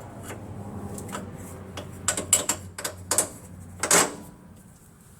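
A quick, irregular run of sharp metallic clicks and clanks from hand tools and suspension hardware as a bolt and nut are handled and fitted. The loudest clank comes about four seconds in.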